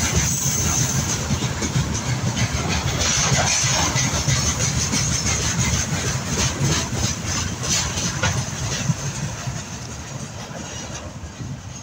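Freight train of railway tank cars rolling past close by: a steady rumble with the clacking of wheels over the rail joints, fading as the last tank car goes by near the end.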